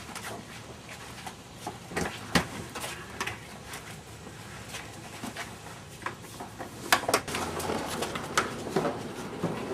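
Scattered knocks, bumps and clicks of people moving about and handling things in a small room, the sharpest about two and a half seconds in and again near seven seconds.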